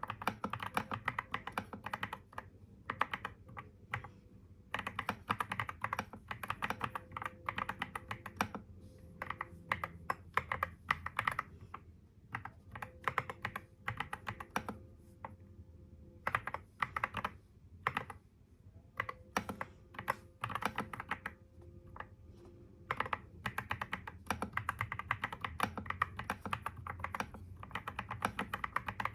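Computer keyboard typing in quick runs of keystrokes, broken every few seconds by short pauses, over a faint steady hum.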